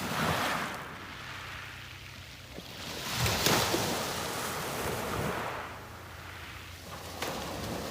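Small sea waves breaking on the beach and washing up and back: a hissing surge at the start, the loudest one about three seconds in, and a smaller one near the end.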